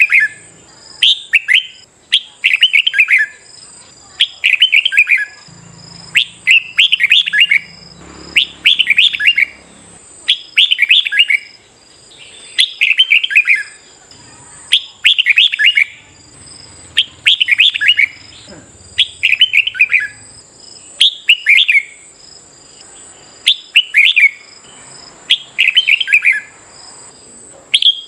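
Red-whiskered bulbul song: short, loud, warbled phrases repeated every second or two without a break, the excited competitive singing used to stir caged bulbuls into song.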